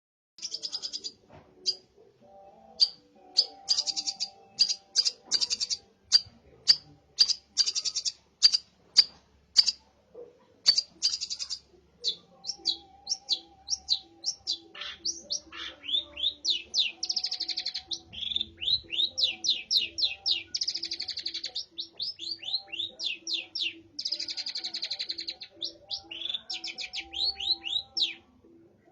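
Long-tailed shrike (cendet) singing steadily, its song filled with mimicked Eurasian tree sparrow chirps: a run of sharp, separate high chirps, turning about halfway through into faster strings of quick down-sweeping notes.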